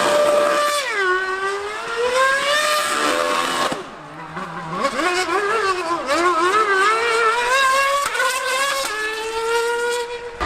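High-revving racing engine, Formula One car or superbike, running flat out past the track. The pitch climbs and drops again and again through gear changes. It fades briefly about four seconds in, then comes back climbing in steps.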